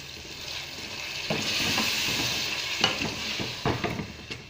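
Potato cubes, masala and freshly added boiled spinach sizzling in hot oil in an aluminium pot while a wooden spoon stirs them. The sizzle swells about a second in, and the spoon knocks against the pot several times near the end.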